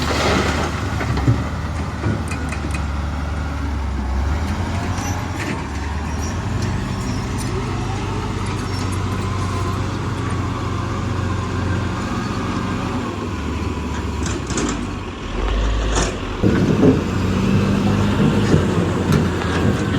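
Heavy machinery's diesel engine running under load, its pitch rising for several seconds in the middle and dropping back, with a few sharp knocks and a louder, rougher stretch in the last few seconds.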